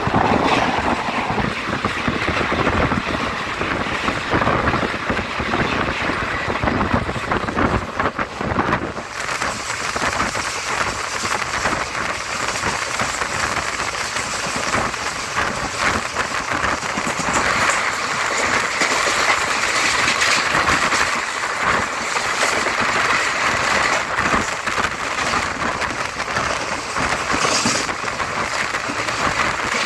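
Express train passing close at speed: a steady rush of wheel-on-rail noise packed with rapid clicks and clatter. About nine seconds in, the low rumble thins and a higher hissing rush takes over.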